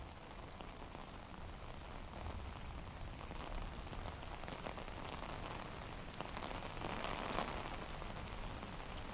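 Steady rain falling, with scattered drop ticks; it grows gradually heavier, fullest a little past the two-thirds mark.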